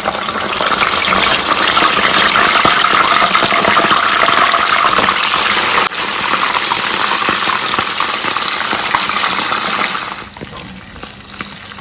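Pieces of stewed duck meat frying in hot oil: a loud, steady sizzle with crackling that eases off near the end.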